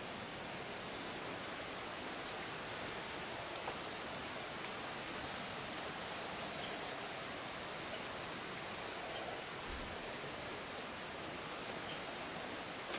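Steady hiss of running water, with a few faint drip-like ticks.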